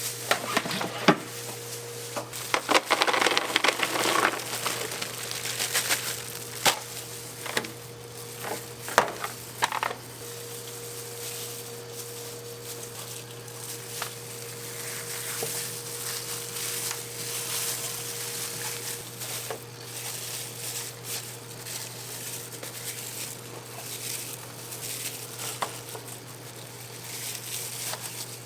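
Kitchen food-preparation sounds: sharp knocks and clatters of utensils and handling, busiest in the first ten seconds, then a steadier sizzling hiss, over a constant low hum.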